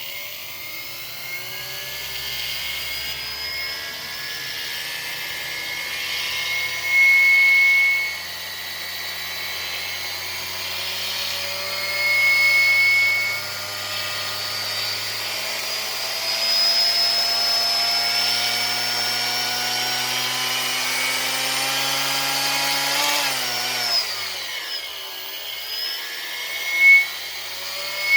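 Homemade electric bicycle's modified washing-machine motor whining, its pitch climbing slowly as it speeds up, then dropping sharply late on before climbing again. Twice a louder high squeal cuts in for about a second.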